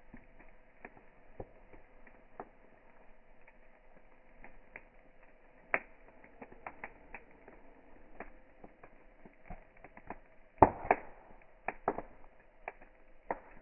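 Wood campfire crackling: scattered sharp pops and snaps, with a loud cluster of pops about ten to eleven seconds in. The recording is slowed down, so the pops sound dull and deep.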